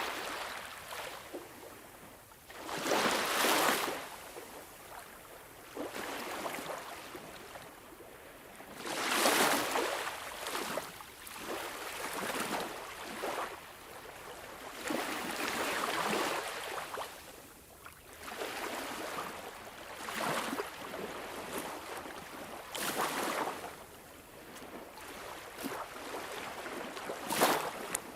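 Sea waves breaking and washing in, a surge of surf every few seconds that swells up and fades away.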